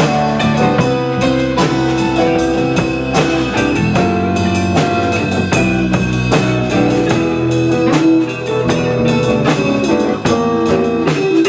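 Live band playing an instrumental passage of a rock song: a drum kit keeping a steady beat under guitar and other held pitched instruments.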